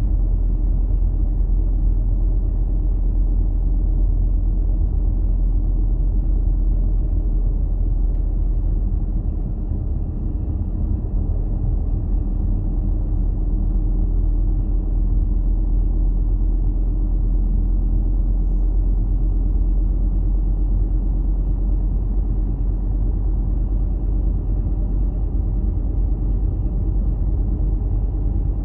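Car driving, a steady low rumble of engine and tyres on the road.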